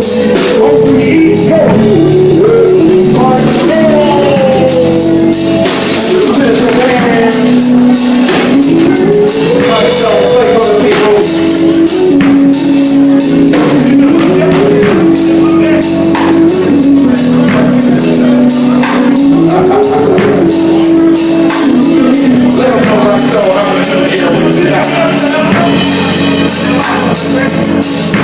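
Electronic keyboard music: a synth melody sliding smoothly up and down between notes over a drum beat, with a voice-like vocoder tone.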